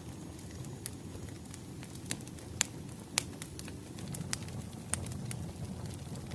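Wood fire crackling, with irregular sharp pops over a low steady rumble of burning logs.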